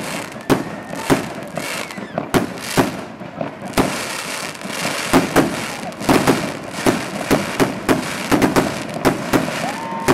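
Consumer aerial fireworks firing in a rapid, irregular series of bangs, with a steady hiss of noise beneath: shells launching from a ground-level cake and bursting overhead.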